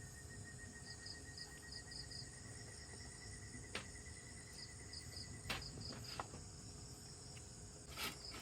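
Tropical forest insects calling: a steady high drone with a thin steady tone and groups of short repeated chirps, crickets among them. A few faint clicks sound about four, five and a half, six and eight seconds in.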